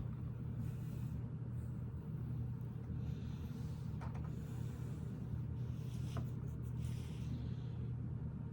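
Steady low hum with a few faint clicks and soft rustles from small plastic Lego pieces being handled.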